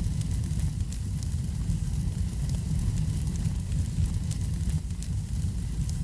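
Wood fire crackling in a fireplace: scattered sharp pops and crackles over a steady low rumble.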